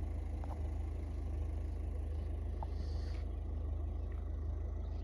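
Steady low hum of a vehicle engine running, with a couple of faint short chirps a few seconds in.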